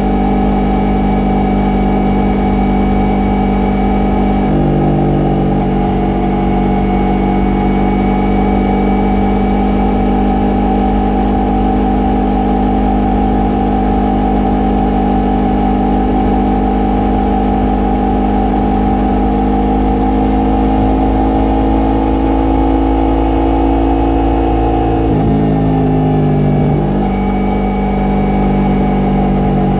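Yamaha MT-03's parallel-twin engine and exhaust running under way, its note climbing slowly. The pitch drops and picks back up near the end.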